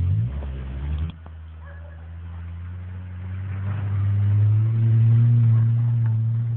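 Opel Corsa engine revving under load as the car drives through deep snow. The note drops suddenly about a second in, then climbs and grows louder, and falls away near the end.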